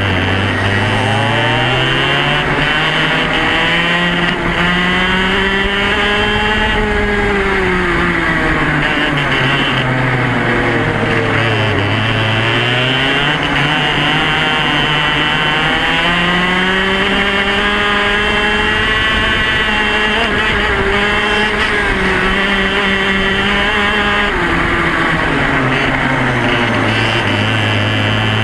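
Yamaha KT100 single-cylinder two-stroke kart engine running hard, its note climbing as it accelerates and dropping as it backs off, twice over, holding high for several seconds in the second half.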